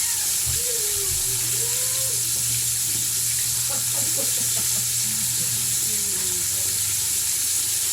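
Oil frying with a steady sizzling hiss, over a low steady hum, with faint voices in the background.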